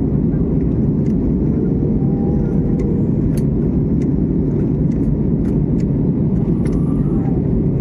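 Steady low roar of an airliner cabin in flight on descent: engine and airflow noise, with a few faint clicks.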